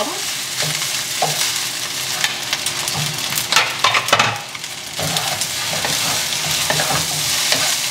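Rice and beaten egg sizzling in a nonstick frying pan while a wooden spatula stirs and scrapes through it, with a cluster of sharper scrapes and knocks of the spatula a little past the middle. The egg is being stir-fried into the rice to coat it.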